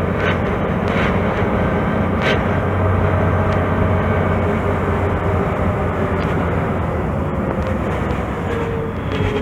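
Mercedes-Benz O-500MA articulated bus with a Voith automatic gearbox, its engine and drivetrain running under way with a steady low hum. A whine slides down in pitch over the last couple of seconds as the bus slows.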